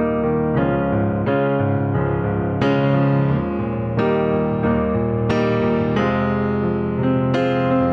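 Slow piano music: a new note or chord about every second, each left to ring and fade.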